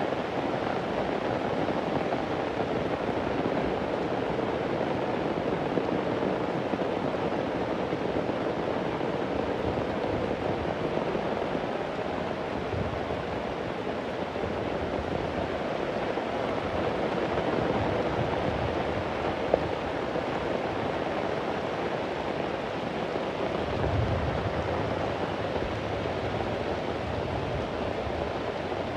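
Heavy rain falling steadily, with two low rumbles of thunder, one about halfway through and one near the end, and a single sharp tick in between.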